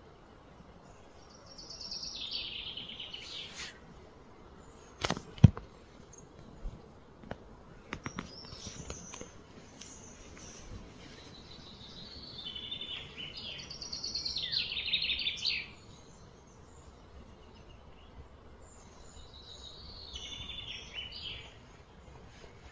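A songbird singing three phrases of rapid, repeated chattering notes, each a couple of seconds long, over a steady outdoor background. A few sharp clicks come about five seconds in.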